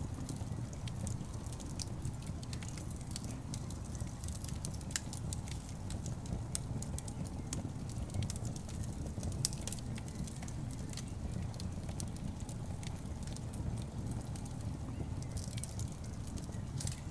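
Wood logs burning in a fireplace: a steady low rumble of the flames with frequent sharp crackles and pops of the wood, one pop a little louder about halfway through.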